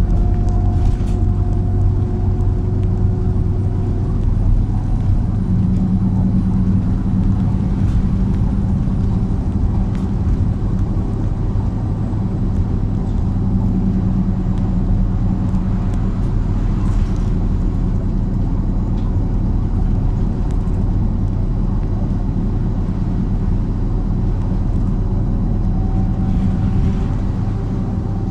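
Steady rumble of a MAZ-103 city bus's engine heard inside the bus, with a low engine note that shifts in pitch a few times.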